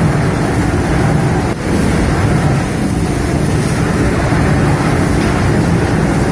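Liberty ship's triple-expansion steam engine running in its engine room: a loud, steady, dense mechanical din with a strong low rumble.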